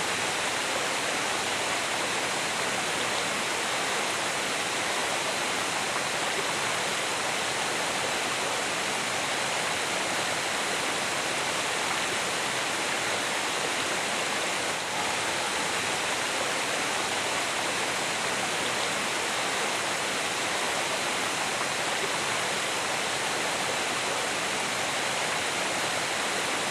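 Steady rushing of running water, an even, unbroken wash of sound.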